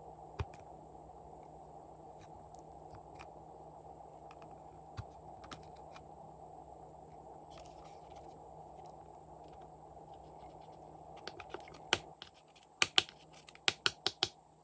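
Glossy slime being handled and mixed: scattered sticky clicks and pops over a steady low rush, then a quick run of sharper, louder clicks near the end.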